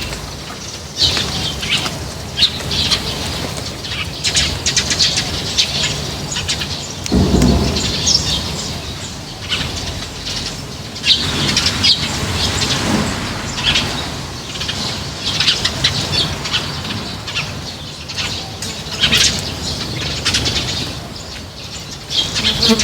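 A flock of small birds at a feeding spot, chirping and fluttering their wings in short irregular bursts, with a louder low rush of wings or wind about seven seconds in.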